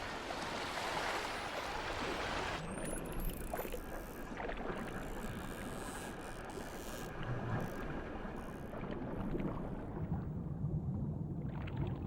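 Sea water rushing and splashing, as from dolphins swimming fast at the surface. The sound changes abruptly, losing its hiss, about two and a half seconds in.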